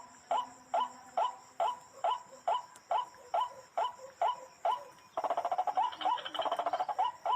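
White-breasted waterhen calling: a short harsh note repeated evenly, about two to three times a second. Past the middle this runs for about two seconds into a faster, denser stuttering chatter, then the even calls resume.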